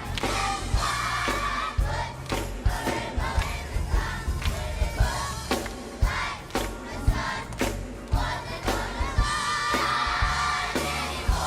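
Upbeat gospel song: a choir singing over a band with a steady drum beat.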